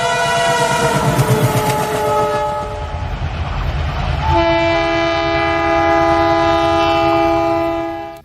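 A passing train sounds its horn, which steps down slightly in pitch. The wheels clatter over the rail joints. About four seconds in, a second long, steady horn blast starts and is held until it cuts off abruptly near the end.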